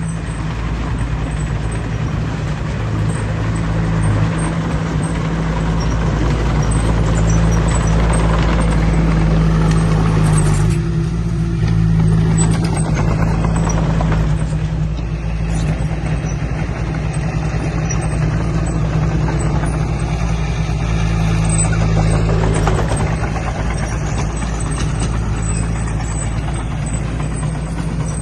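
Heavy diesel engine of earthmoving equipment running steadily, with a change in its note about eleven seconds in.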